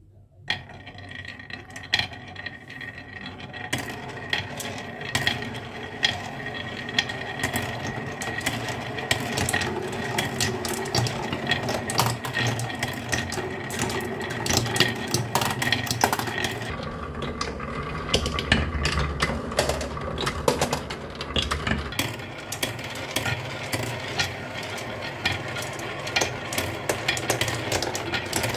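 Many marbles rolling and clattering down a toy marble run: a dense, continuous stream of clicks and clacks, with a heavier rolling rumble in the middle.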